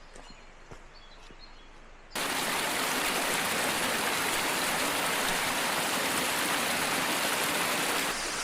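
Henrhyd Falls, a tall waterfall, rushing loudly and steadily. It cuts in suddenly about two seconds in, after a quiet stretch with faint chirps and ticks.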